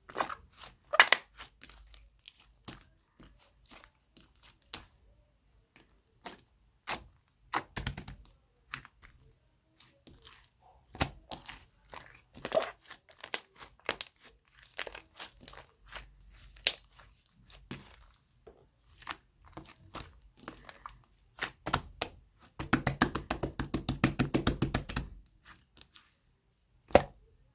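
Firm chocolate slime being pressed, stretched and folded by hand, giving irregular sticky clicks and crackles. Later a quick run of many clicks follows for about three seconds.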